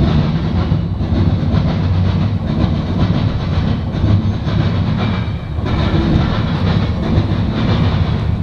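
Norfolk Southern freight train passing close by, its cars rolling along the rails with a loud, steady rumble and wheel-on-rail noise.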